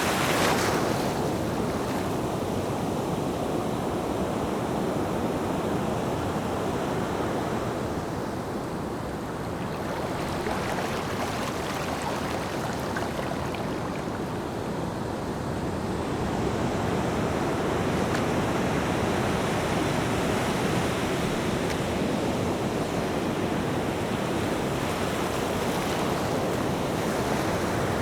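Ocean surf: waves breaking and washing in, a continuous rush that swells and ebbs slowly, with a louder wave fading about a second in, a lull, then the surf building again.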